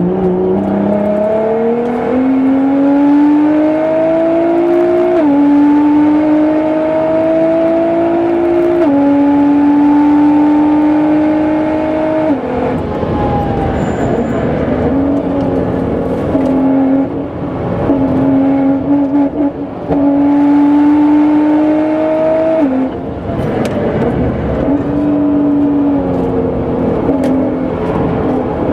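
Nissan GT-R R35's twin-turbo V6, tuned to about 700 hp, accelerating hard on track: the pitch climbs and drops sharply at three quick upshifts in the first dozen seconds, then the engine backs off briefly and pulls again several times.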